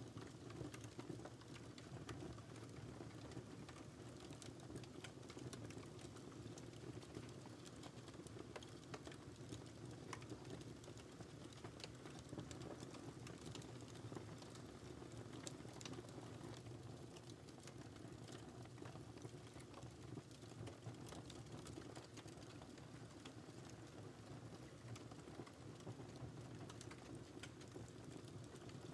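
Faint wood fire crackling in a fireplace: a steady low burning rush with frequent small, sharp, irregular pops and snaps.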